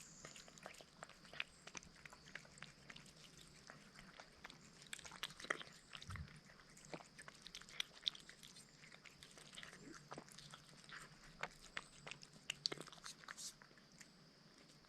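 Barn cats eating dry food: faint, irregular crunching and clicking of kibble being chewed.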